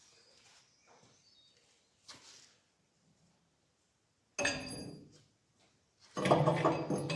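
Mostly quiet workshop sound with faint knocks. A short burst comes about four and a half seconds in, and about six seconds in background radio music cuts in loudly.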